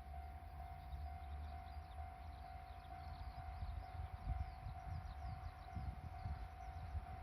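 A steady, evenly pulsing warning tone, typical of a railway level-crossing alarm, sounds over a low rumble that grows louder about halfway through. Short, high, falling chirps run through it.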